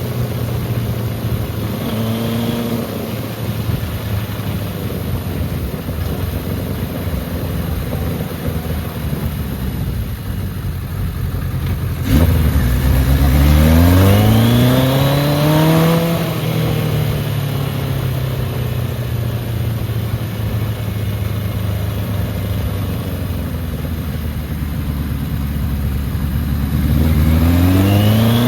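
Kawasaki KZ1000 LTD motorcycle's air-cooled inline-four engine running under way. About twelve seconds in, the engine note jumps louder and climbs in pitch for several seconds under acceleration, then settles to a steady cruise and climbs again near the end.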